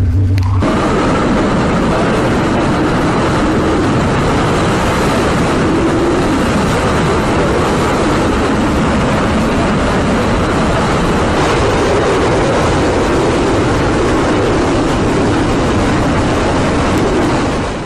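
Hurricane-force wind with driving rain, a loud steady roar that cuts off abruptly at the end.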